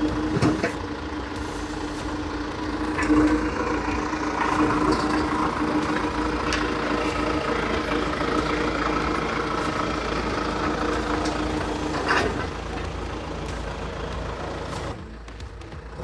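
A heavy-equipment engine running at a steady speed, with several sharp metal clanks over it. The engine sound drops off near the end.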